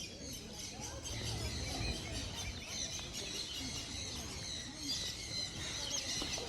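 Many small birds chirping together, a dense run of overlapping high chirps, over a low rumble.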